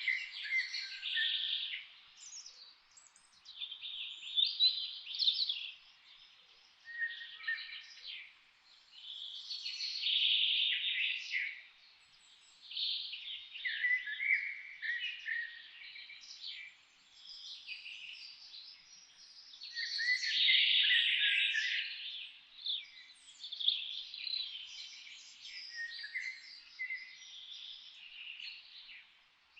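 Several songbirds singing and chirping over one another, in bouts of song every few seconds.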